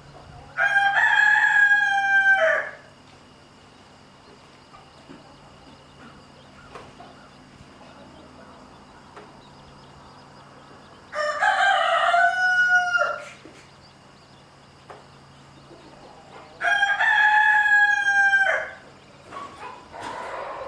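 Rooster crowing three times, each crow about two seconds long with a falling tail, the later two coming about ten and fifteen seconds after the first. A softer call follows near the end over a faint steady low hum.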